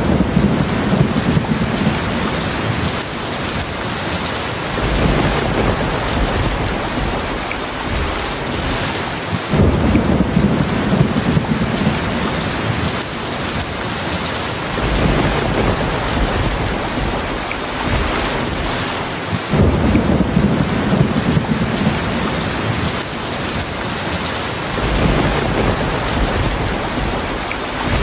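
Heavy rain falling steadily, with low rolling thunder rumbling again and again every few seconds.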